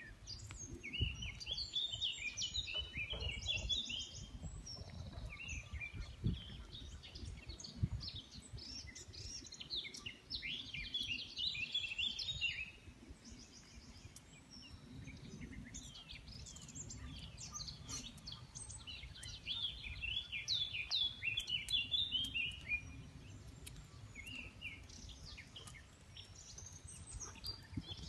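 Wild birds singing and chirping in the background, several songs overlapping throughout, over a low, uneven rumbling noise.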